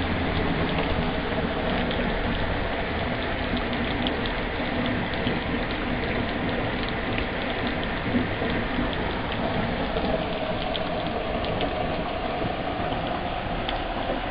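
Heavy rain falling on pavement and puddles: a steady hiss full of small drop ticks.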